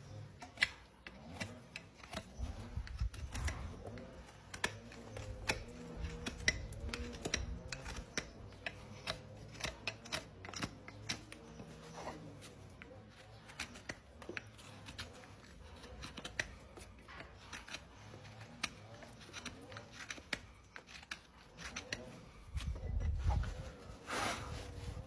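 Hoof-care tools cutting and scraping at a horse's hoof: a long, irregular run of sharp clicks and scrapes, with dull low thumps near the end.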